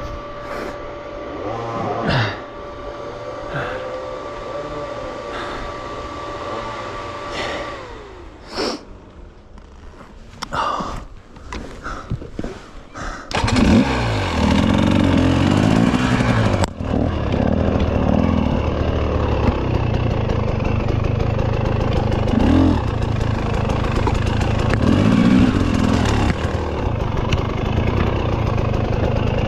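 Off-road dirt bike engine. For the first dozen seconds it is quiet, with a steady whine and scattered knocks and clatter. About 13 seconds in the engine catches and then runs loud, revving up and down.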